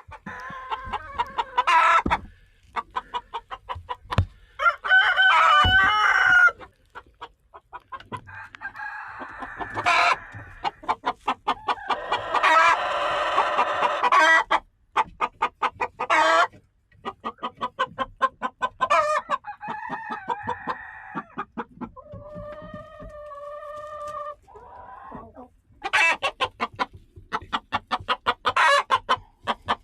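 A flock of chickens clucking in rapid runs, broken by several long drawn-out calls, the loudest about halfway through.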